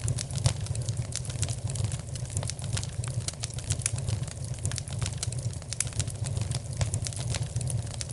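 Fire in a fireplace crackling, with frequent small sharp pops over a steady low rumble.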